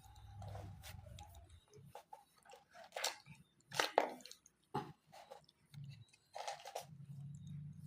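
A cat grooming itself, licking and nibbling at its fur in short, irregular wet strokes.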